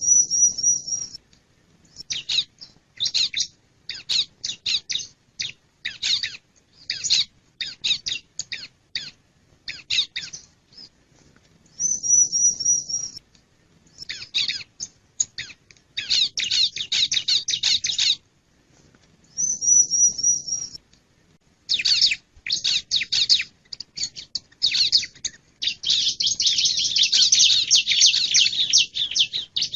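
Male bar-winged prinia (ciblek) calling: runs of sharp, high, quickly repeated chirps, broken by short wavering trills near the start, about twelve seconds in and about twenty seconds in. There are dense, fast chattering runs around sixteen seconds and near the end.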